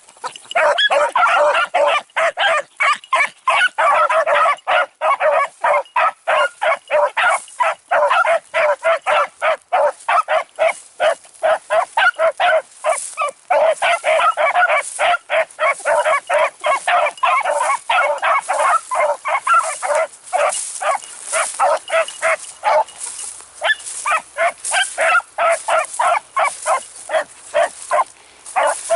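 A pack of beagles baying continuously as they run a rabbit's track, many voices overlapping in rapid calls; the steady cry shows the hounds are on the scent. The cry eases briefly about three-quarters of the way through, then picks up again.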